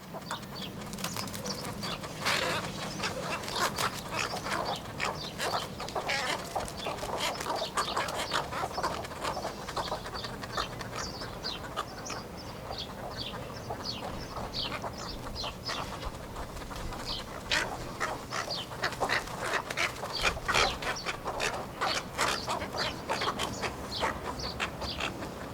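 Bird calls: a dense, fast run of short chattering notes that continues without a break.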